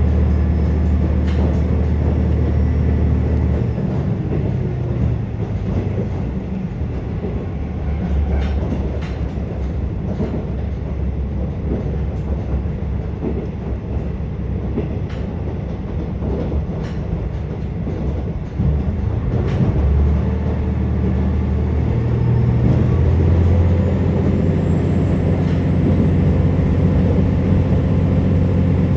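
Inside a KiHa 47 diesel railcar under way: the diesel engine drone under the floor eases off about four seconds in, comes back near twenty seconds and grows louder after that. Wheels click over rail joints now and then throughout.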